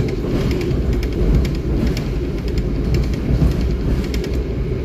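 Passenger train carriage in motion: a steady low rumble of wheels on the rails, with light, irregular clicks and rattles.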